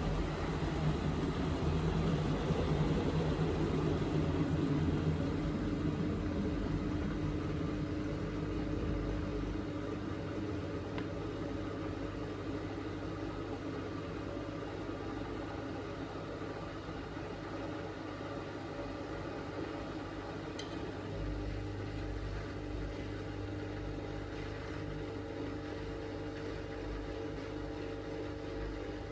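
Miele front-loading washing machine in its final spin, the drum spinning at a steady speed with a steady motor hum and whine. A louder rushing sound in the first few seconds eases off to an even level.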